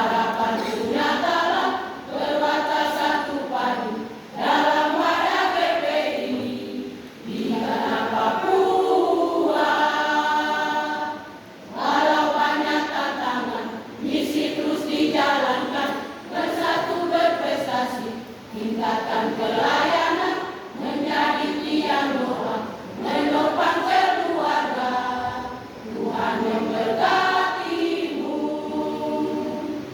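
A church choir singing a hymn in phrases of a few seconds, with short breaks for breath between them.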